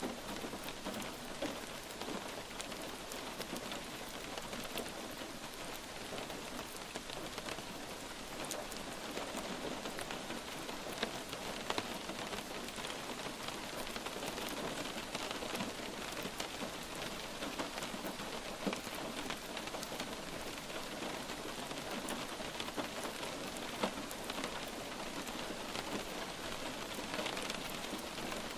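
Steady light rain falling on a surface, a continuous hiss with many individual drops pattering, a few of them louder.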